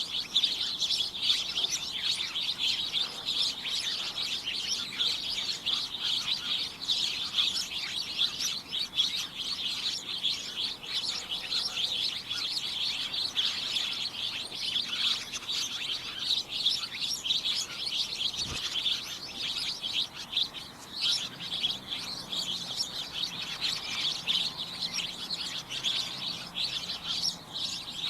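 A flock of small birds chirping constantly, many short high chirps overlapping into a steady chatter.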